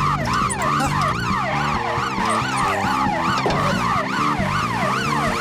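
A fast siren-like yelp, about three rising-and-falling sweeps a second, over cartoon chase music with stepping low notes.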